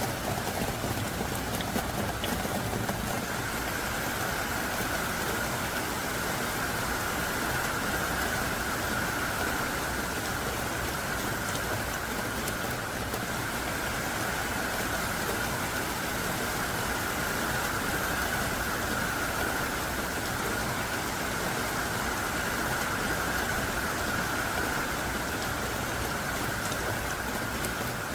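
Heavy downpour falling steadily: a dense, even hiss of rain that neither builds nor eases.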